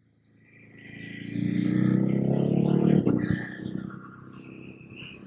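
Ducati Hypermotard's V-twin engine pulling away, swelling in and rising in pitch for about two seconds, then dropping back after a sharp click about three seconds in.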